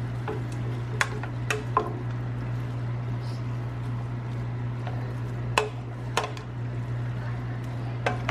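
A cooking spoon clinking against a pot about six times at irregular intervals while cabbage is stirred, over a steady low hum.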